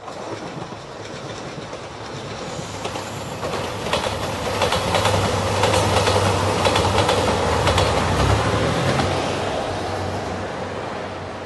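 JR Shikoku 2700 series diesel express train passing at speed: diesel engine hum and the clickety-clack of wheels over rail joints. It grows louder as the train approaches, is loudest about six to eight seconds in, then fades as it moves away.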